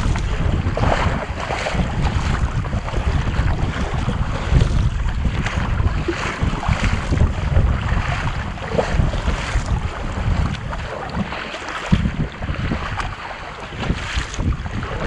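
Wind buffeting the microphone over water sounds from a kayak at sea, with repeated splashy strokes roughly once a second as the paddles dip into the water.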